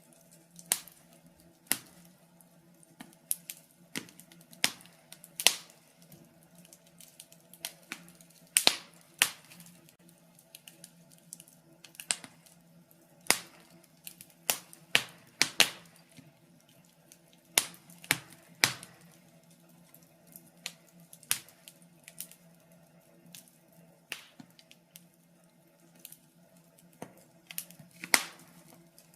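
Wood fire in a fireplace crackling: irregular sharp snaps and pops, some much louder than others, over a faint steady low hum.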